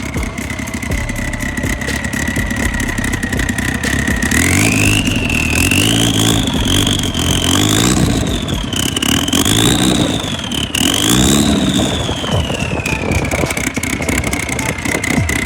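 Performance car engine and exhaust idling, then revved in about five quick blips before dropping back to idle. A high whine rises and falls with each rev.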